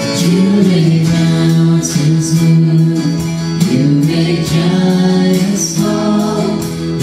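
Contemporary worship song: a voice holding long notes that slide between pitches, over guitar and band accompaniment.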